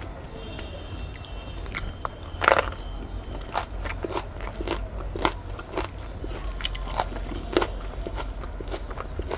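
A person chewing food close to the microphone, with an irregular string of short crisp crunches and clicks, the loudest about two and a half seconds in.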